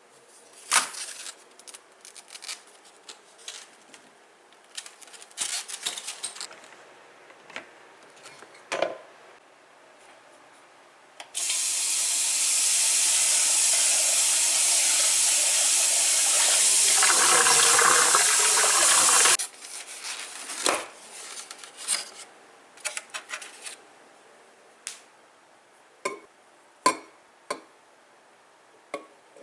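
Water running for about eight seconds and stopping abruptly, with knocks and clicks of things being handled before and after.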